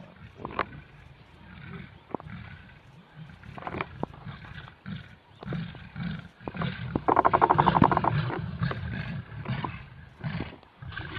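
Lions growling and snarling in a series of low, rumbling growls, the loudest a long rasping snarl about seven seconds in.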